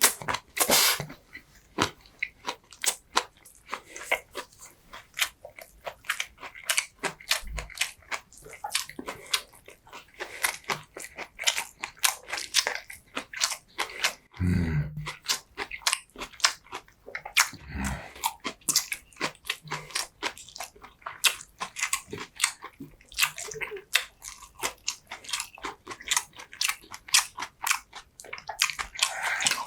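Close-miked eating sounds of a person chewing and biting food: a dense run of sharp, wet clicks and crunches, with two brief low thuds around the middle.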